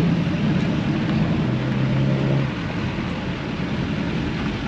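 Car engine running as a car moves through the lot, louder for the first couple of seconds with a steady low drone, then easing off slightly.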